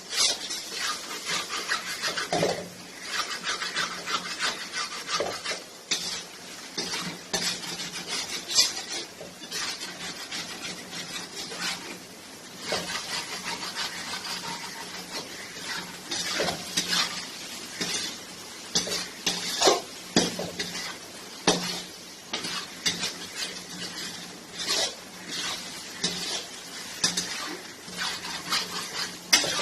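Spoon scraping and clinking against a pan as chicken is stirred and sautéed in thick spice masala, in irregular strokes throughout, over a faint sizzle.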